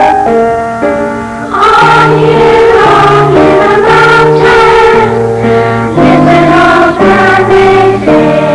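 Piano playing alone, then a school choir starts singing a Christmas song with piano accompaniment about a second and a half in.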